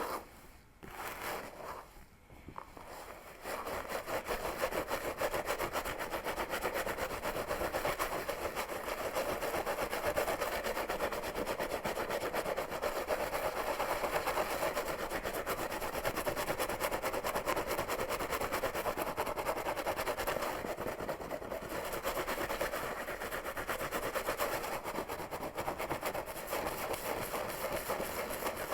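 Fingernails scratching rapidly through hair on a scalp, close to the microphone. A few separate strokes come first, then continuous fast scratching from about three seconds in.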